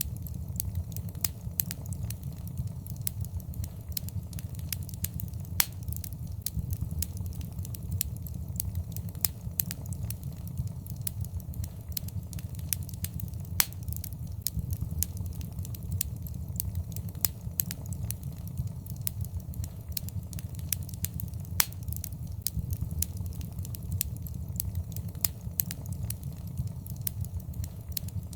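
Wood fire burning in a fireplace: a steady low rumble of flames with continual irregular crackling and occasional louder pops.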